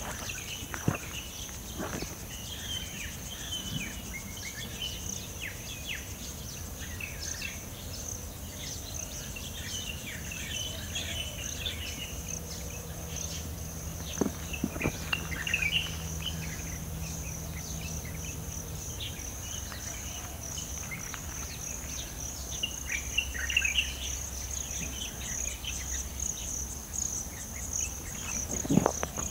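A steady, high-pitched chorus of insects buzzing, with birds chirping and calling on and off over it, busiest in the first half and again about three-quarters of the way through.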